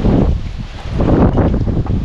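Wind buffeting the microphone in gusts: a loud low rumble that eases for a moment and then picks up again about a second in.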